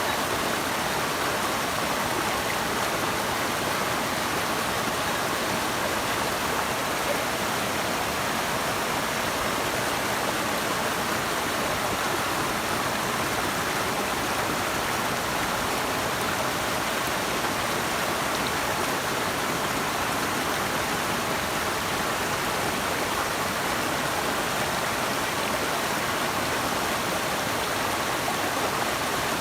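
Rushing water flowing steadily, a continuous even hiss without breaks or changes.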